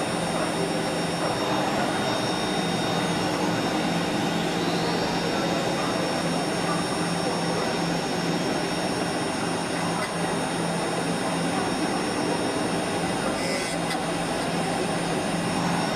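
CNC lock-and-hinge drilling machine for aluminium door profiles running: a steady mechanical rush and whine, with a brief rising whine about four seconds in.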